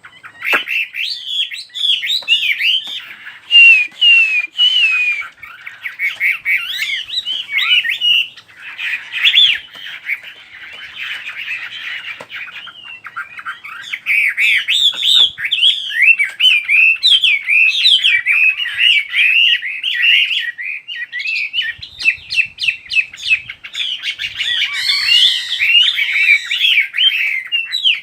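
A songbird singing a long, rapid, varied song of quick whistled and chattering notes, with only a brief pause about halfway through.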